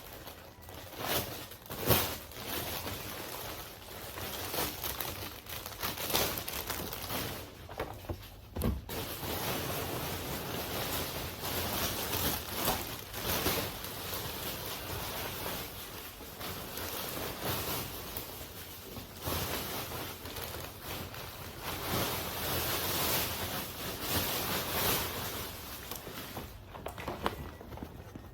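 Curtain fabric rustling as it is handled and hung, with scattered clicks and knocks.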